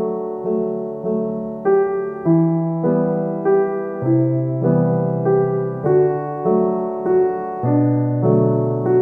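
Background piano music, notes struck at an even pace of a little under two a second.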